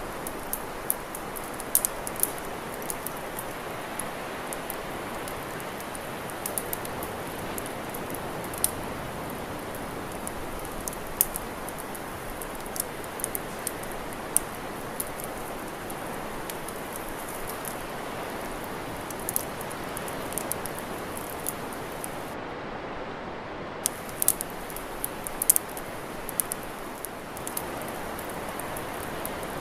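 Campfire crackling: irregular sharp snaps and pops, several a second at times, over a steady hiss.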